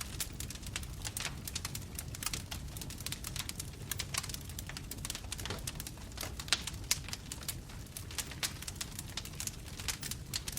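Wood fire burning, with frequent sharp crackles and pops over a low steady rumble of the flames.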